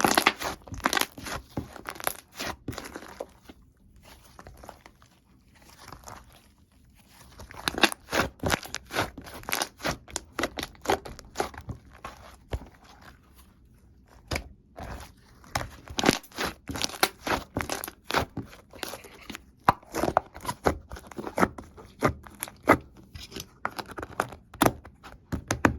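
Slime being squeezed, stretched and pressed by hand, giving runs of quick crackling pops and clicks, with a couple of quieter pauses between bursts.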